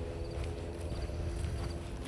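Footsteps walking along a dirt trail over the steady low drone of a distant helicopter.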